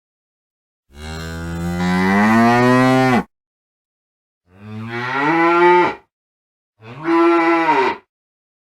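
A cow mooing three times, the first moo the longest at about two seconds, the next two shorter.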